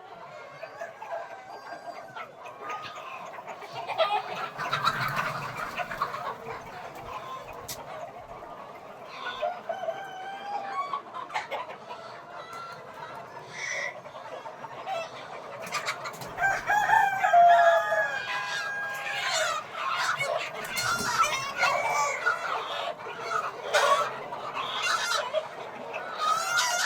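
A flock of Peruvidai country chickens clucking and calling, with roosters crowing over and over; the calls overlap thickly and grow louder and busier after about the halfway point.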